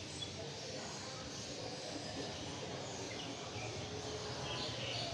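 Small caged songbirds chirping in short bursts, busier in the second half, over a steady background hum.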